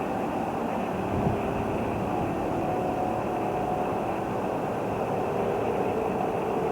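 Train running at a station: a steady rumble with a faint hum, even throughout.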